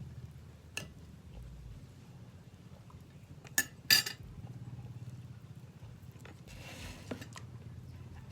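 Eating utensils clinking and scraping against a plate a few times while a meal is eaten, the loudest clink about four seconds in, over a low steady hum.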